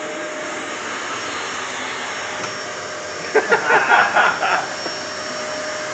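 Electric drill motor running steadily as the second hole is drilled, a continuous whirring noise.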